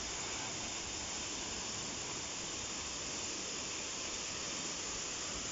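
Steady rush of waterfall water, an even hiss with no breaks.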